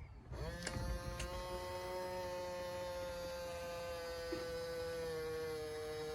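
WowWee Animatronics Timber Wolf toy's recorded wolf howl played through its built-in speaker, set off by the action button on its back. One long held note that rises quickly into pitch about half a second in and drops slightly near the end, with a couple of faint clicks near the start.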